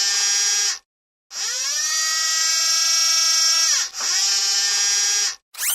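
Cartoon sound effect of a Mars rover's electric motors: three whirring runs of a servo-like motor, the middle one the longest, winding up in pitch as it starts and down as it stops. A quick rising zip comes near the end.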